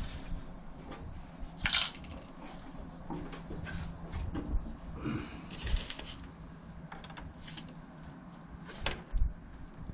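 Irregular clicks, knocks and rattles of hard plastic and metal parts being handled, as in taking apart a wall-mounted air conditioner, with a few sharper knocks standing out. A low steady hum runs underneath.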